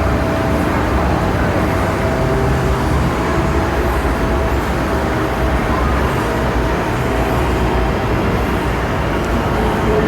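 Steady, loud low rumbling background din with a few faint held tones, unchanging throughout.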